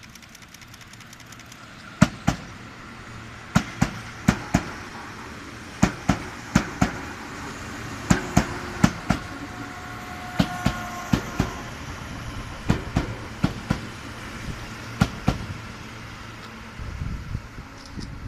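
Tobu 8000-series electric train rolling slowly past, its wheels clacking in pairs over the rail joints as each bogie crosses, over a low rumble. A brief squeal comes about halfway through.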